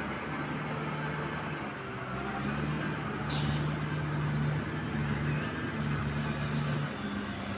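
Tractor engine running steadily while plowing through mud. It grows louder about two seconds in and eases off near the end.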